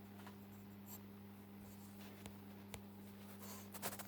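Quiet room tone with a steady low electrical hum and a few faint clicks.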